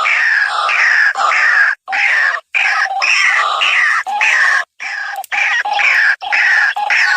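Loud, repeated calls of a white-breasted waterhen, each a short falling note, about two a second, broken now and then by abrupt brief gaps.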